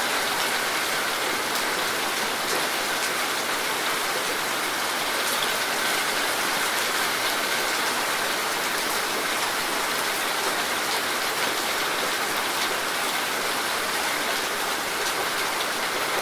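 Steady heavy rain falling on surfaces, an even hiss with faint scattered drop ticks.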